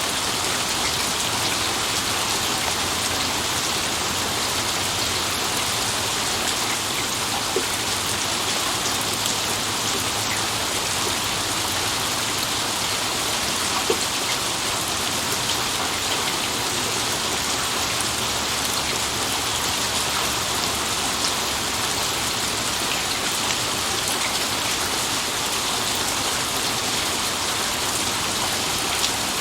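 Steady heavy rainfall: an even hiss of rain with scattered sharp drop ticks. No thunder is heard.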